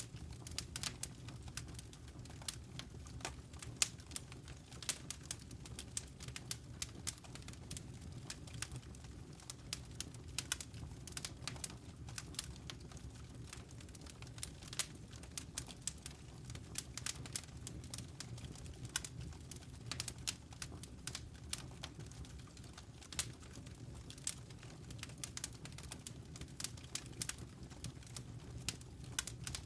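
Wood fire crackling in a fireplace: irregular sharp snaps and pops over a low, steady rumble of the burning fire.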